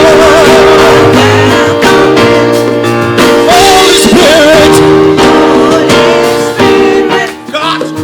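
A song: a singer holding long notes with vibrato over sustained chords, guitar and bass, with a short drop in level near the end.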